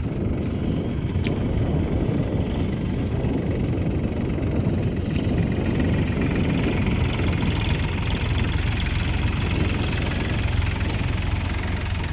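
Solis 4215 4x4 tractor's diesel engine running steadily.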